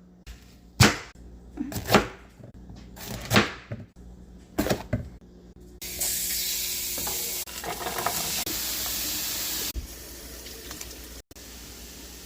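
A handful of sharp kitchen knocks over the first five seconds, then food sizzling in a hot pan from about six seconds in, dropping to a quieter sizzle at about ten seconds.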